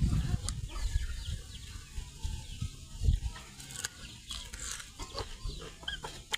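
Short bird chirps scattered through, over irregular low thumps and sharp clicks and knocks.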